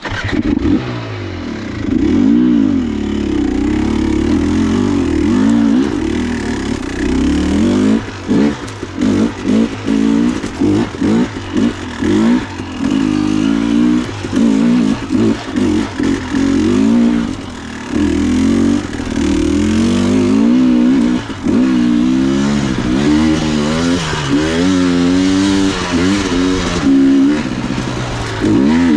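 Dirt bike engine running under constantly changing throttle, its pitch rising and falling as it revs up and eases off. Through the middle stretch the throttle is blipped on and off in quick, repeated bursts.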